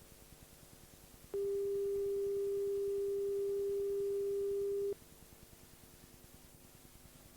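A steady single-pitch electronic tone starts abruptly about a second in, holds for about three and a half seconds, then cuts off sharply. Faint tape hiss and hum from the VHS tape's lead-in lie under it.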